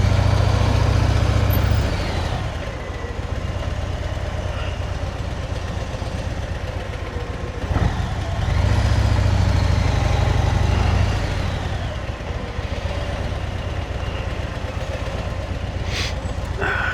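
Motorcycle engine running in slow traffic, heard from the bike: a steady low rumble that grows louder at the start and again about eight seconds in. A sharp click near the end.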